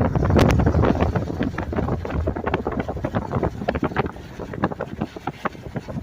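Wind buffeting the microphone: a loud gusty rumble that starts suddenly, full of crackles, and eases a little after the first couple of seconds.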